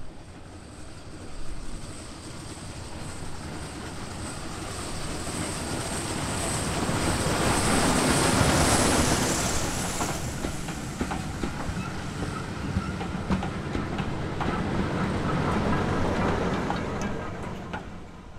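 Short heritage train passing by: the running noise builds to its loudest about eight seconds in, then carries on with a string of wheel clicks over rail joints and dies away near the end.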